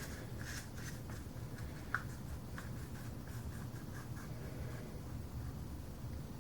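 Faint scraping and light ticks of a plastic mixing cup of blue resin being worked and poured, with one sharper click about two seconds in.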